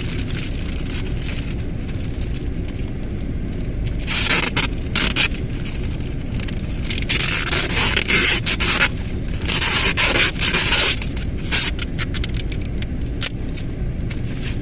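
Gift-wrapping paper crinkling, rustling and being torn in three loud bursts, about four seconds in, around seven seconds in and again near ten seconds, full of sharp crackles. Under it runs the steady low rumble of the car's heater.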